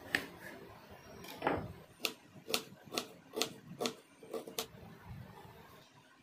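A series of sharp taps or knocks, about two a second for a few seconds, after a couple of single knocks.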